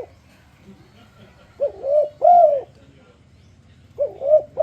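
Spotted dove (tekukur) cooing: one full three-note phrase, two short coos and a longer falling coo, then the phrase starting again near the end.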